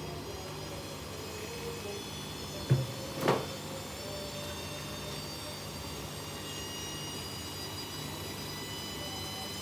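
Washing machine on a high-speed spin: a steady motor and drum whine, several high tones slowly rising in pitch as it speeds up. Two short knocks come about three seconds in.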